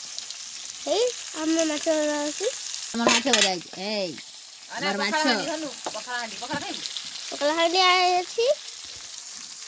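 Fish frying in oil in a wok over a wood fire, a steady sizzle, with a high-pitched voice speaking or singing loudly over it in several short phrases.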